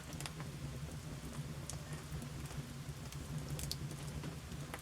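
Wood fire burning in a stone fireplace, with sparse faint crackles and pops from the damp firewood.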